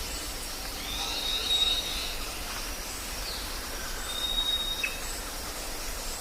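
Jungle ambience: a steady background hiss with bird calls over it, a high held whistle-like note about a second in and again around four seconds, and a short call sliding downward near five seconds.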